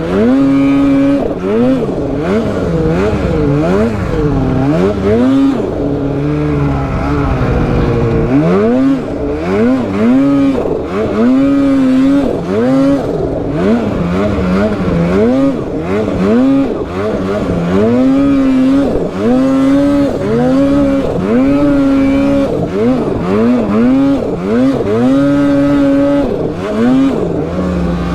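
Polaris snowmobile's two-stroke engine being blipped on and off the throttle over and over, its pitch climbing and dropping about once a second, with a few brief stretches held at steady revs, as the sled is worked through tight, technical terrain.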